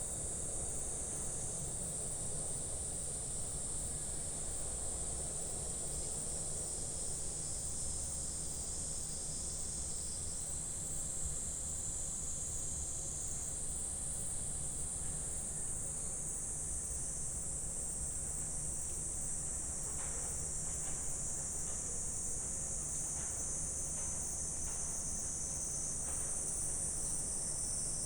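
Steady, high-pitched chorus of insects buzzing continuously, over a low rumble.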